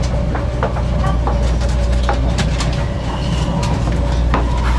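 500 series Shinkansen cabin noise while the train is running: a steady low rumble, a faint steady tone above it, and scattered sharp clicks.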